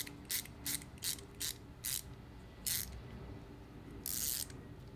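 Mini hex-bit ratchet clicking in short, even strokes, a bit under three a second, as it backs a small screw out of the knife. The clicking pauses after about two seconds, with one more stroke, then a longer ratcheting sweep near the end.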